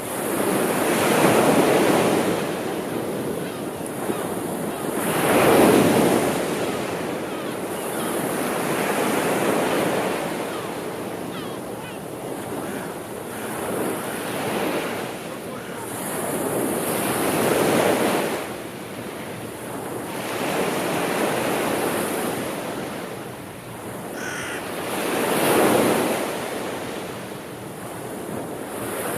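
Sea waves washing onto the shore, each wave swelling and ebbing about every four seconds over a constant rush of surf.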